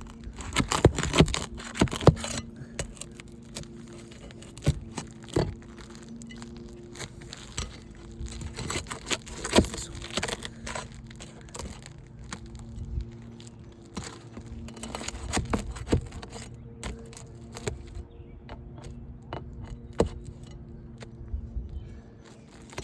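Hand tools working nails loose under asphalt shingle tabs: irregular scraping, clicks and sharp knocks, a few of them louder. A faint steady hum sits underneath.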